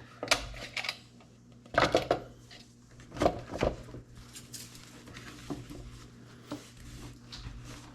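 Knocks and clicks of a tight-fitting new air filter being pushed and worked into the compact tractor's air filter housing. There are several louder knocks in the first four seconds, then only small taps.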